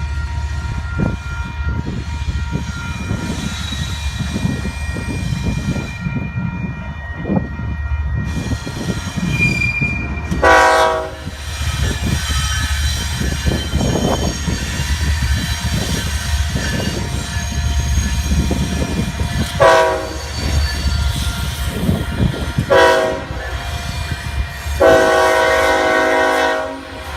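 Freight train hauled by GE Evolution-series diesel locomotives rumbling steadily, its air horn sounding four times: a short blast about ten seconds in, two more short blasts close together later, and a longer blast near the end.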